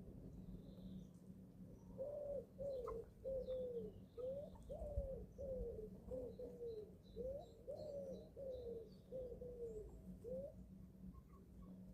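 A young chicken giving a run of about a dozen low, arching calls at a steady pace, roughly one and a half a second, with faint high chirps from other young birds.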